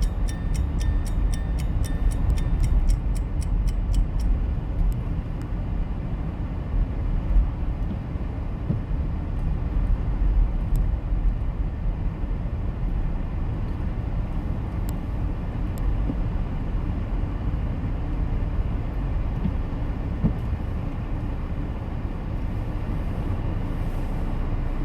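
Car interior road noise while driving: a steady low rumble of engine and tyres. A fast, even ticking runs through the first four seconds or so, then stops.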